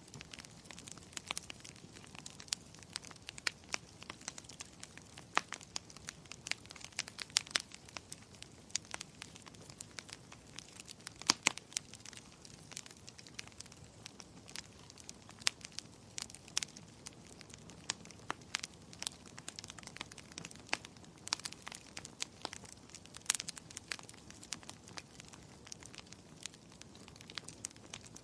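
Wood fire burning in a fireplace, with irregular sharp crackles and pops over a low steady hiss.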